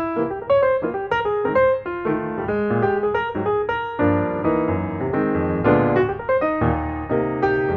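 Piano music: a run of quick notes with chords underneath, played at a steady pace.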